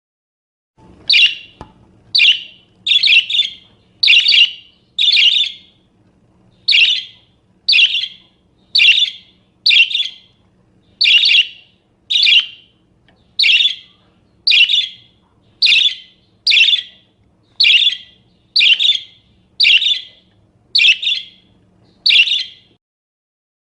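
Parakeet calling: short, sharp chirping calls repeated about once a second, now and then in quick pairs, about twenty in all.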